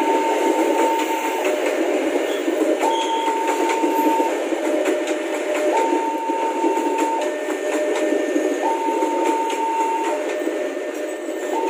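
A train of freight wagons rolls past at speed: steady wheel-on-rail noise with scattered rail-joint clicks. Over it, a level-crossing warning alarm switches between a high and a low tone about every one and a half seconds.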